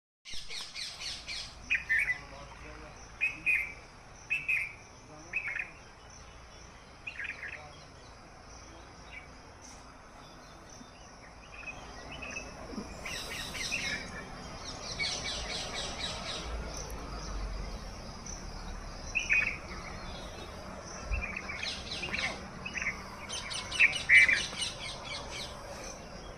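Birds calling outdoors: short separate calls repeated every second or so, with several bursts of rapid high-pitched chirping.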